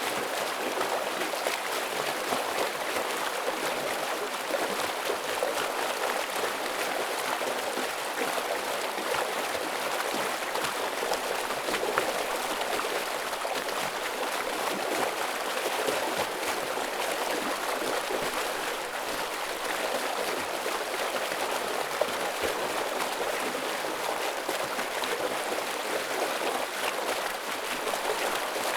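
Stream water rushing and splashing over rocks, a steady dense burble with many small splashes.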